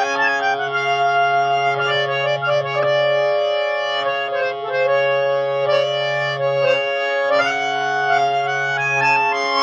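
Sixty-year-old full-size harmonium being played: a melody moves in steps over low notes held as a steady drone.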